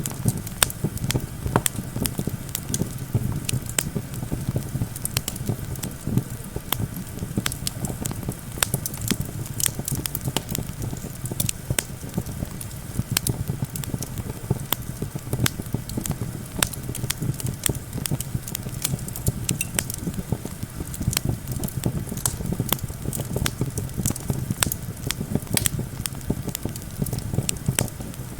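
Wood campfire crackling, with irregular sharp pops and snaps throughout, over a steady low rumble of wind.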